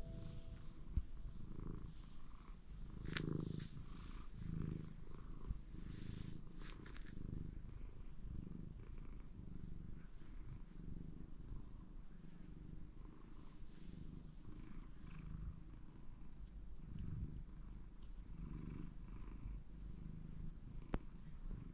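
Domestic cat purring: a soft low rumble that swells and eases in slow pulses with its breathing.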